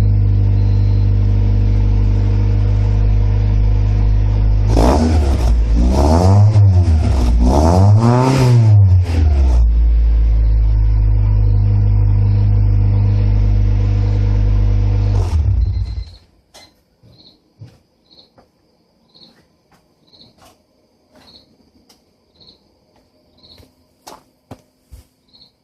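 Honda Civic EK4's four-cylinder engine idling through a 2.5-inch Spec-D aftermarket exhaust, blipped twice about five seconds in, each rev rising and falling over a second or so. The engine settles back to idle and is switched off near the end, leaving faint regular ticking about once a second.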